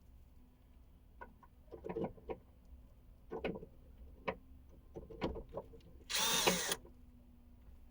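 A series of light metallic clicks and knocks as a magnetic pickup tool is worked inside a car's rear hatch panel to fish out a dropped bolt, with a brief harsh scraping rattle about six seconds in.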